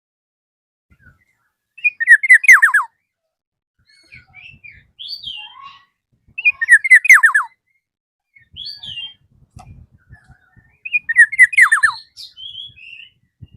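Black-naped oriole singing: three loud phrases about four and a half seconds apart, each a quick run of falling notes, with softer short calls between them.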